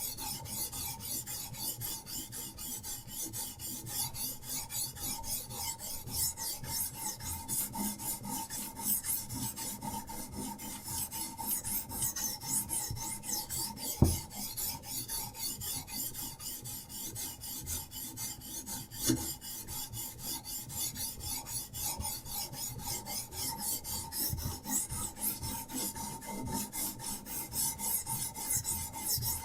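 Diamond sharpening stone on a Hapstone RS guided knife sharpener stroked back and forth along a knife blade's edge, in a quick, even rhythm of scraping strokes. A sharp knock about halfway through, and a smaller one a few seconds later.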